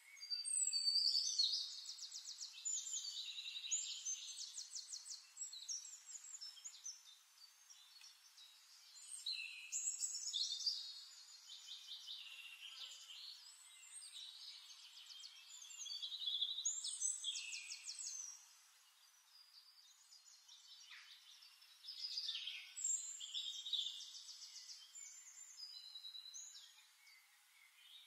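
Songbird singing in about four phrases of rapid high trills and chirps, separated by short pauses.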